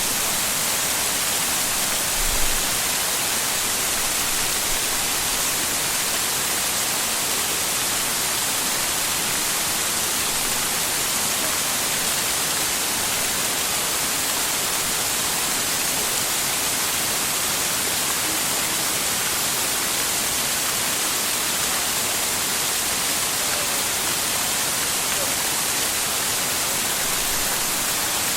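Waterfall: a steady rush of falling water, an even hiss strongest in the high end, with one brief low bump about two seconds in.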